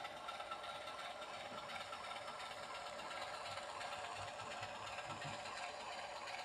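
OO gauge model locomotive running on the layout, with a steady mechanical hum from its motor and running gear.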